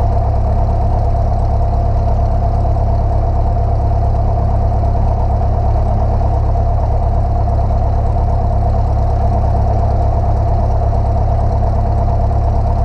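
Single-engine light aircraft's piston engine running with a steady, unchanging drone while the plane taxis.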